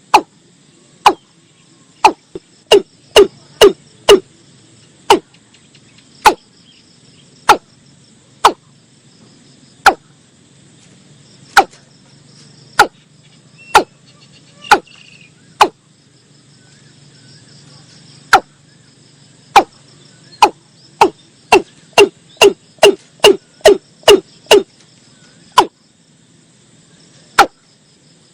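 Watercock calling: a series of loud, sharp, hollow 'kok' notes, spaced about a second apart at first, then quickening into a rapid run near the end. Insects buzz steadily in the background.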